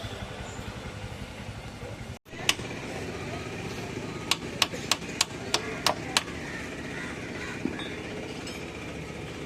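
An engine running with a steady low rumble, cut off abruptly about two seconds in. After that comes a steady background hum, with a run of about seven sharp knocks, roughly three a second, around the middle.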